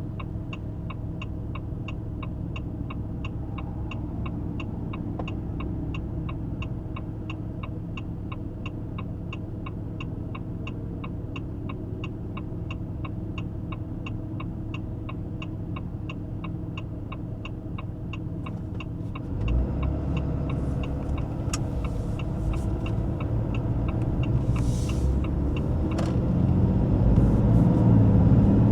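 A Ram 2500's 6.7-litre high-output Cummins inline-six turbo-diesel idles with a turn signal ticking about three times a second. About two-thirds of the way in, the ticking stops and the engine pulls away, louder and rising as the truck accelerates.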